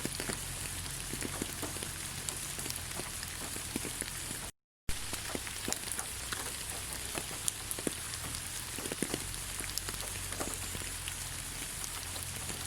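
Steady rain falling on leaves: an even hiss with many separate drops ticking. It cuts out completely for a moment about four and a half seconds in.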